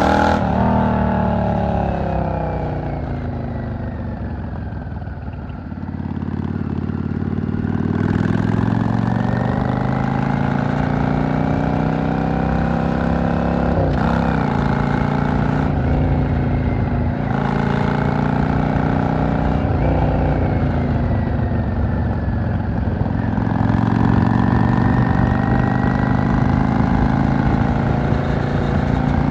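V-twin cruiser motorcycle engine and exhaust heard while riding: the engine note drops as the bike slows over the first few seconds, then builds again under acceleration, with a quick break in the note partway through as a gear is changed. Near the end it eases off and then pulls up again.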